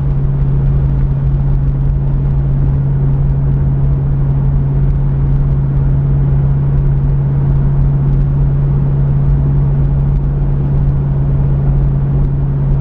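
Pontiac Firebird driving at a steady speed: an even, unchanging engine drone with road rumble underneath.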